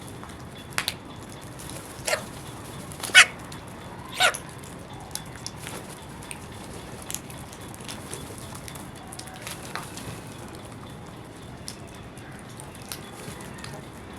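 Crows calling with short, harsh caws, four in quick succession over the first few seconds, the third the loudest, followed by scattered faint ticks over a steady background hiss.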